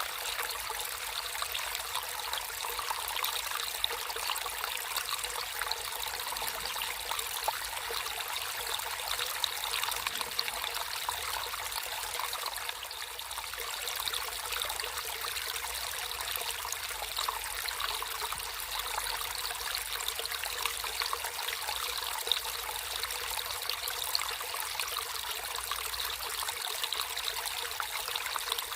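Water flowing in a natural stream, a steady rushing sound with no pauses.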